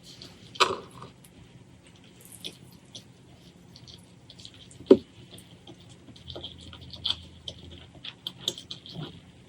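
Close-miked eating: wet mouth clicks and smacks of chewing food, with two louder thuds, about half a second in and about five seconds in.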